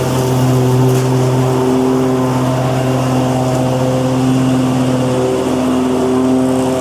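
Lawn mower engine running steadily at a constant speed, a continuous mechanical drone.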